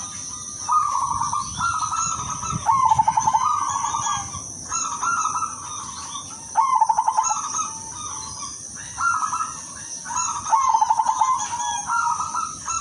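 Silver zebra dove (perkutut) cooing over and over, each phrase a quick rattle of notes followed by longer, smoother coos, repeating every second or two.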